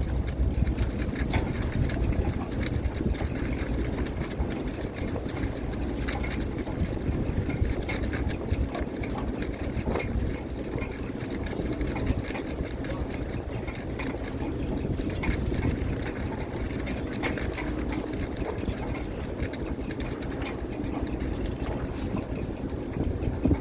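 Net fishing boat's engine running steadily, with scattered clicks and clatter over it.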